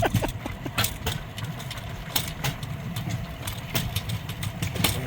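Steel wheels of a pedal-powered rail bike rolling along old railway track: a steady low rumble with frequent irregular clicks and clacks.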